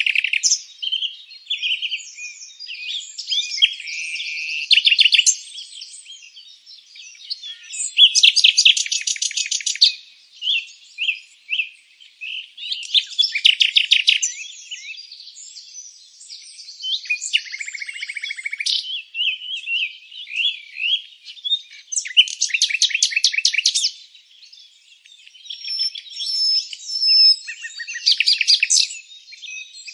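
Several small songbirds chirping and singing, with fast high trills breaking in every few seconds among shorter chirps and whistled notes.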